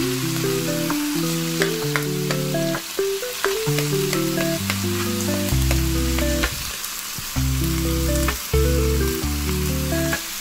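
Minced garlic and pork sizzling in hot oil in a frying pan, with a spoon stirring and clicking against the pan. Background music with a melody and bass plays throughout.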